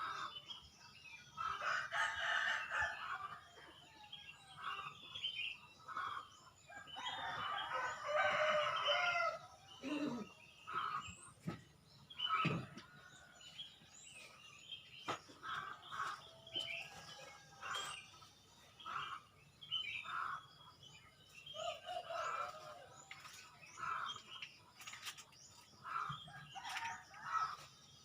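A rooster crowing twice, two long calls a few seconds apart, over small birds chirping over and over.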